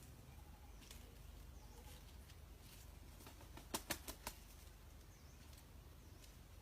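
A rooster flapping its wings, four quick beats just past the middle, the wing-beat a cock gives before it crows. Faint high bird chirps come at intervals behind it.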